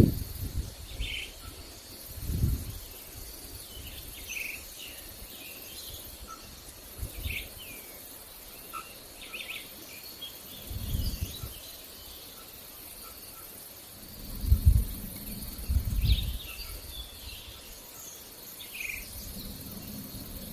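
Outdoor nature ambience: a steady high insect trill under scattered short bird chirps, with several low rumbling swells of wind, the strongest about two-thirds of the way through.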